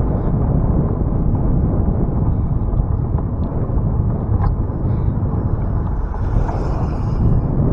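Wind buffeting the microphone of a camera riding on a moving bicycle: a loud, steady low rumble. A faint hiss rises briefly near the end.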